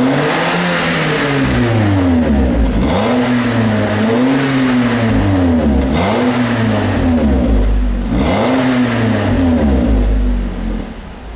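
Nissan Rogue's 2.5-litre four-cylinder engine revved about five times, each time rising and falling back, heard through an aftermarket sport muffler exhaust. It drops back to idle near the end.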